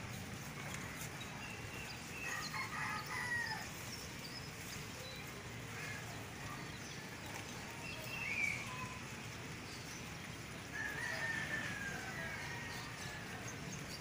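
Bird calls over a steady low background hum: three drawn-out calls, about two, eight and eleven seconds in, with a few short chirps between them.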